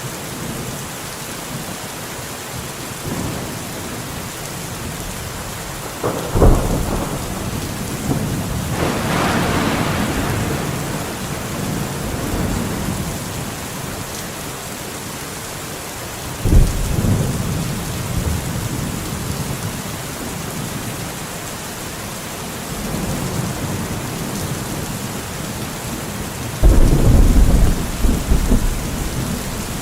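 Steady rain with thunder: three sudden claps, about six seconds in, around the middle and near the end, each followed by a rolling rumble.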